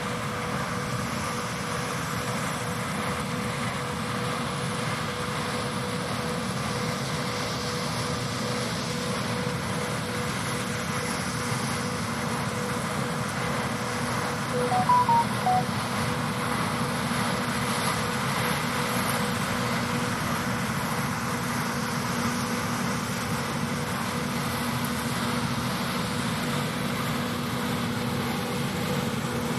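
Steady drone of harvest machinery running, with a constant whine. A few short high chirps sound about halfway through.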